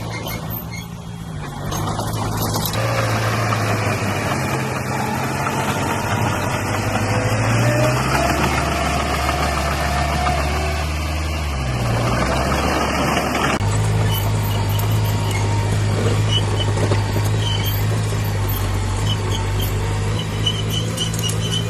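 Heavy diesel engine of earthmoving machinery running steadily, its note shifting pitch a few times, with a high squeal midway.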